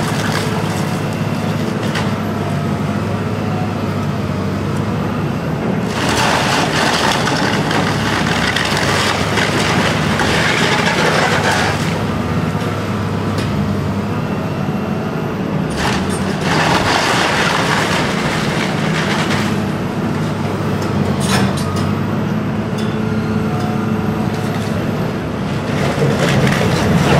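Demolition excavator's diesel engine running steadily, with several long stretches of crunching, cracking debris as the machine tears down a building.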